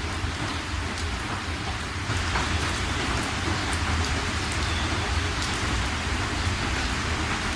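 Steady rain falling on a surface, a continuous hiss with scattered individual drops ticking and a low rumble underneath; it grows a little louder about two seconds in.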